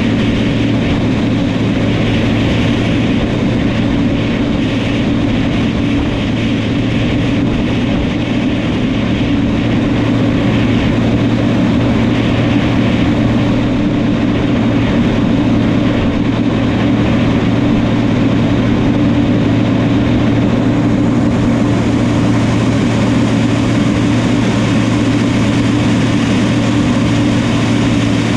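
Diesel engine of a New Holland crawler dozer running steadily at constant speed, a deep even drone with a noisy clatter over it.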